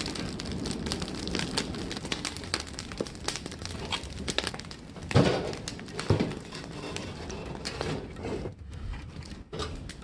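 Wood fire crackling with many small irregular pops, and two heavier thumps about five and six seconds in.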